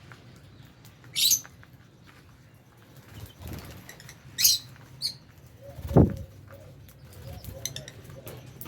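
Lovebirds giving short, shrill chirps, a few at a time with pauses between, over light scattered clicks. About six seconds in comes a single low thump, the loudest sound, such as a bird's wingbeat or landing in the aviary.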